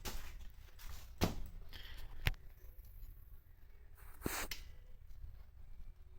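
A few sharp knocks and clicks, three in all, spaced a second or two apart, over a low background rumble. No engine is running yet.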